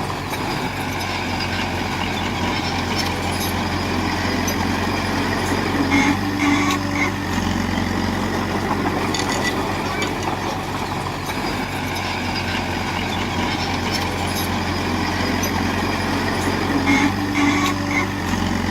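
Heavy diesel engine of earthmoving machinery running steadily. A brief higher tone sounds about six seconds in and again near the end.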